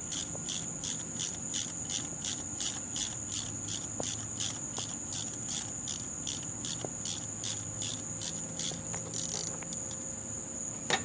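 Insect chirping in steady pulses, about three to four a second, over a continuous high trill. A few faint clicks come from the socket wrench loosening a spark plug.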